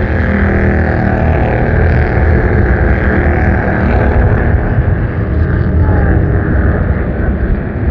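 Several Bandolero race cars running at speed around the oval, their engines giving a steady mix of overlapping engine notes.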